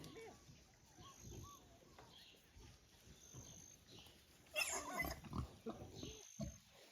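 Pigs grunting quietly, with a louder, higher-pitched call about four and a half seconds in.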